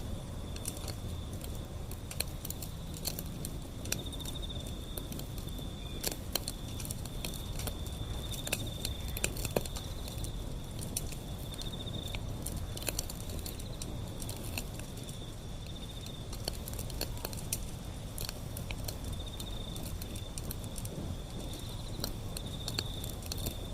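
Wood fire burning with a low rumble of flames and irregular crackles and pops from the burning wood. A steady high insect trill, like crickets, runs underneath.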